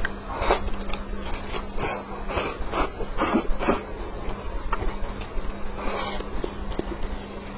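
Close-miked eating sounds of a person eating mala xiang guo (spicy dry stir-fry pot): irregular bites, chewing and slurps, about a dozen short noisy bursts, a few of them drawn out.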